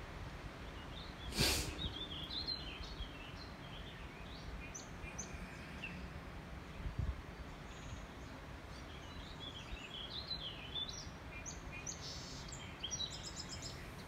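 Birds singing in two spells of short, quick chirps over a steady low outdoor rumble. A sharp click comes about a second and a half in, and a low thump near the middle.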